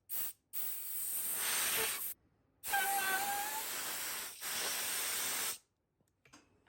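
Bursts of hissing, pressurised spray or air: two short ones at the start, then three longer ones of one to two seconds each. A brief whistle sounds during the middle burst.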